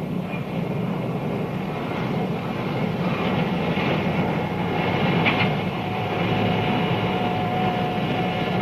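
Union Pacific Big Boy steam locomotive standing with steam up: a steady hiss and rumble from its fire, generator and air pumps. A faint steady whine comes in about five and a half seconds in.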